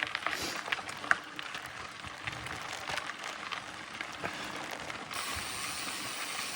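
Mountain bike ridden along a dirt trail: irregular ticks and rattles from the bike and its tyres, with a steady hiss that sets in about five seconds in.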